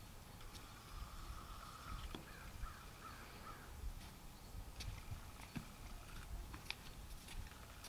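Faint outdoor ambience: a distant bird gives a run of short wavering calls from about one to three and a half seconds in, over a low rumble, with a few light clicks later on.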